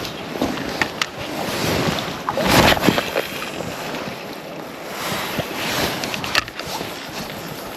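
Steady noise of moving water and wind, with a few short sharp clicks and a louder swell about two and a half seconds in.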